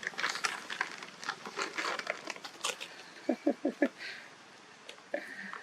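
Crackling and rustling of mango packs as monkeys grab fruit, a rapid scatter of short sharp crackles. About three seconds in comes a quick run of four short vocal sounds.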